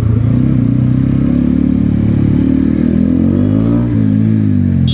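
Kawasaki Ninja ZX-10R's inline-four engine running, its pitch rising and falling again about three to four seconds in. A brief sharp click comes near the end.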